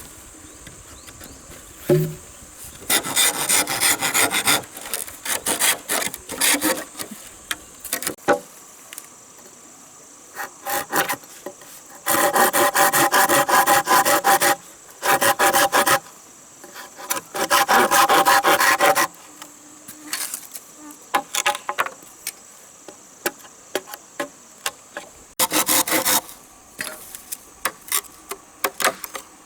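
A hand tool working wood in bursts of quick, rhythmic back-and-forth strokes, with scattered knocks between the bursts. A steady high insect drone runs underneath.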